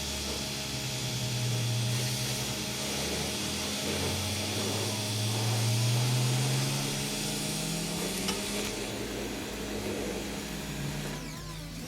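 Hamburgers sizzling on a grill, a steady hiss, under a low hum that slowly rises in pitch twice.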